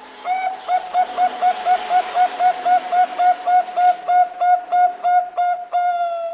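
Zebra dove (Thai perkutut bangkok) calling: a rapid run of about twenty short cooing notes, about four a second, ending in one longer held note.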